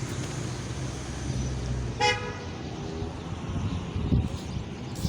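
A single short horn toot about two seconds in, over a low steady traffic rumble, with a dull thump around four seconds.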